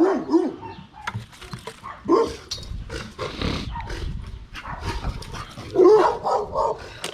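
A dog barking several times, the loudest barks about six seconds in, with light clicks and rustling around them.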